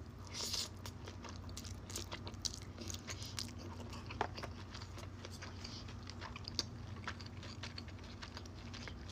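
Close-miked chewing of a sushi roll with shrimp tempura and crab: small, irregular wet mouth clicks and light crunches.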